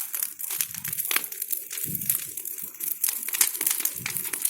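Bonfire of branches burning with dense, rapid crackling and snapping.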